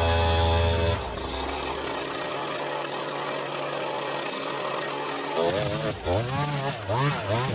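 Small petrol engine running: steady for the first second, then quieter, and from about five seconds in its speed rises and falls over and over.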